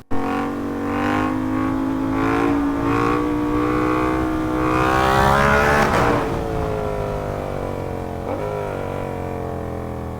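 Sport motorcycle engine heard from the rider's seat, pulling steadily with its pitch rising slowly to a peak about halfway through, then easing off and settling lower. A rush of wind noise rises with the speed around the peak.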